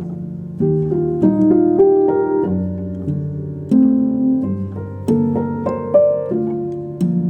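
Gentle background music on piano: soft chords and single notes, each struck and left to ring out, a new one roughly every second.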